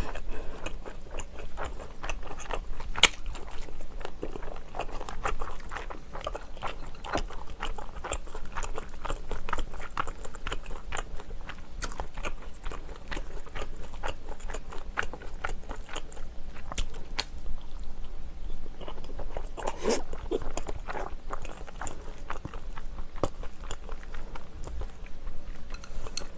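Close-miked chewing and mouth sounds of someone eating tteok-galbi (Korean grilled short rib patty) and rice: a steady stream of small wet smacks and clicks. There is a single sharp click about three seconds in.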